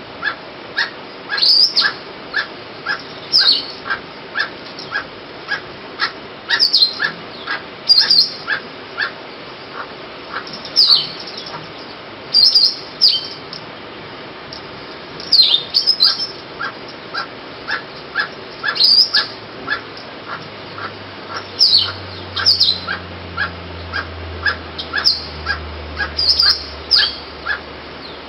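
Barbet calling: a long run of short, evenly repeated notes, about two to three a second, mixed with sharper falling higher-pitched notes every second or two.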